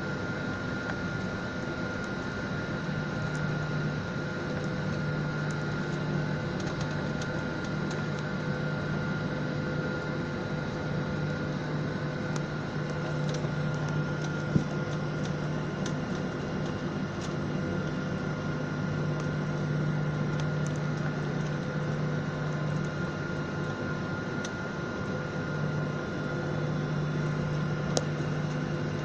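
Steady drone of an airliner's engines and air-conditioning heard inside the passenger cabin, a constant hum with fixed tones that neither rises nor falls. Two brief clicks, one about halfway through and one near the end.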